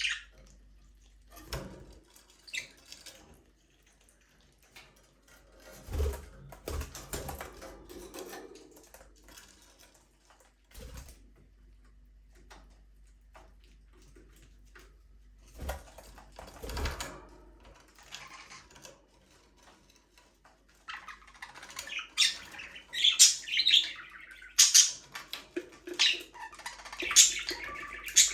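Budgerigars (budgies) chirping and chattering, sparse at first with a few soft thumps and rustles, then a dense run of loud, high chirps for the last seven seconds or so.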